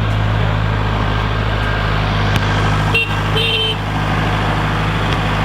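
Kubota L47 tractor-loader-backhoe's diesel engine running steadily with a strong low hum, with two short high-pitched beeps about three seconds in.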